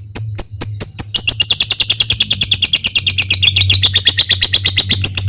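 Lovebird calling: sharp repeated ticking chips, about four a second, breaking about a second in into a fast, long, high-pitched rattling chatter, the 'ngekek' song that keepers play to get other lovebirds singing.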